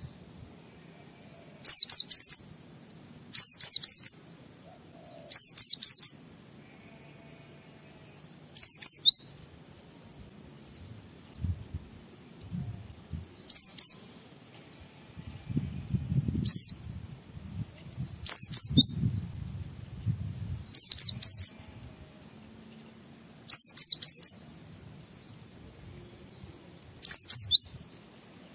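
Pleci (white-eye, Zosterops) singing in short, high-pitched chirping phrases of quick falling notes, about ten phrases a couple of seconds apart with quiet gaps between.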